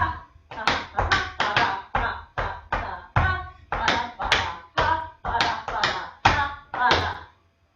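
Tap shoes striking a hard floor in a quick, even run of taps, about two to three a second, as a tap step is danced. The taps stop shortly before the end.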